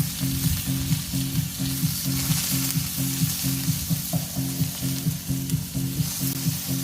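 Ground chicken patties sizzling as they fry on a flat top grill, a steady hiss. Underneath runs a low hum that pulses about three times a second.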